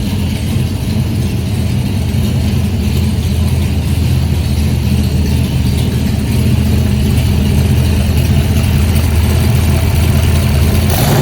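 1965 Shelby Cobra's 427 aluminum side-oiler big-block V8, bored out to 463 cubic inches, running at a steady idle after a cold start. A short sharp noise sounds near the end.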